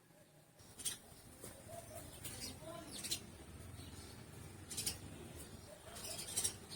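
Small birds chirping in short, high calls every second or so.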